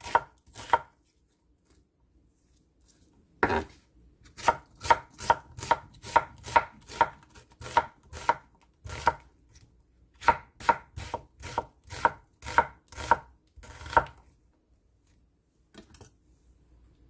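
Kitchen knife slicing through an onion onto a cutting board, sharp even strokes about two a second in runs with short pauses; the strokes stop a few seconds before the end.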